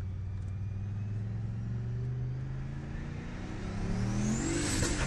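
HSV GTS V8 engine heard from inside the cabin, running steadily under light throttle, then accelerating hard for the last second and a half. Its note climbs in pitch, with a high whine rising alongside it.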